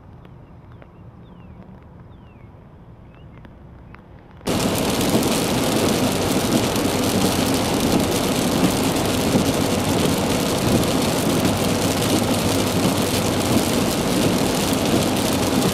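Rain beating on a moving car and its tyres hissing on the wet road, heard from inside the car. It cuts in abruptly about four and a half seconds in, after a few seconds of faint outdoor background, and then runs as a loud, even rush.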